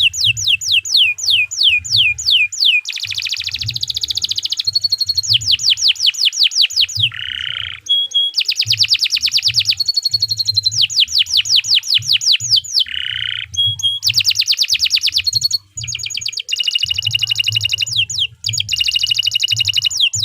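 Domestic canary singing a long, continuous song of fast repeated trills, switching to a new trill phrase every second or two.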